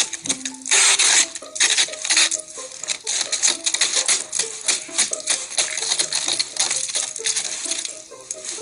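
Freezing rain ticking and clattering in a dense patter of sharp clicks on hard, ice-coated surfaces, with short pitched tinkling notes mixed in.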